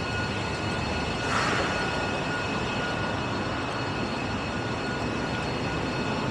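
Steady background noise of a busy outdoor market, an even hiss with a few faint steady high tones and no distinct events.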